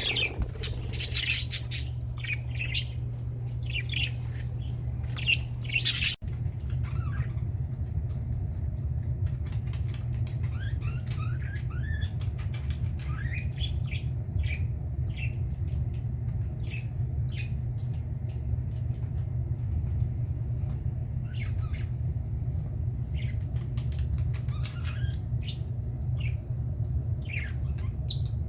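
A flock of budgerigars chattering, with loud harsh squawks in the first few seconds, then lighter chirps and short rising calls. A steady low hum runs underneath.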